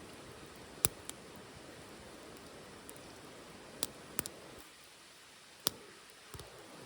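Wood fire burning in a small titanium wood stove: a soft steady hiss with sharp crackling pops, about six of them, the loudest a little under a second in and again near six seconds.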